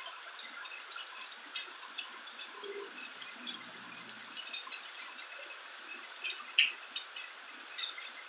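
Rain falling, with many separate drops tapping irregularly over a steady hiss; one louder drip about six and a half seconds in.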